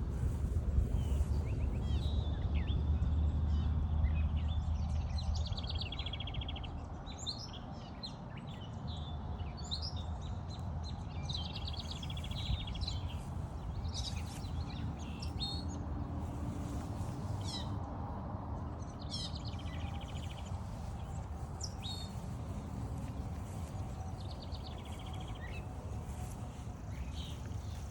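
Several wild birds singing and calling at once, short trills and chirps overlapping throughout, over a low outdoor rumble that is strongest in the first few seconds.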